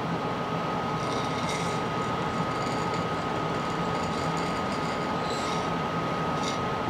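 Steady mechanical background hum with a constant high-pitched whine, and faint light rattling about a second in and again near the end.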